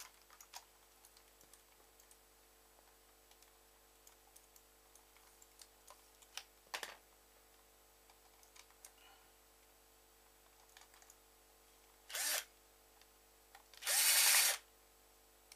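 Small electric screwdriver running in short bursts while driving the screws back into a computer mouse's shell: a brief burst about twelve seconds in and a longer, louder one near the end. Before the bursts come scattered light clicks of small plastic parts being handled.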